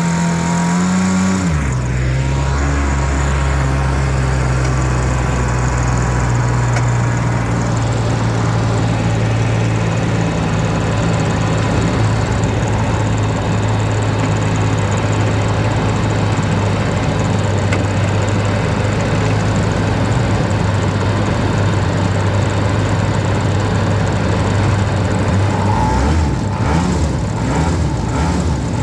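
An engine running steadily; its pitch drops about a second and a half in, then holds level until it shifts again near the end.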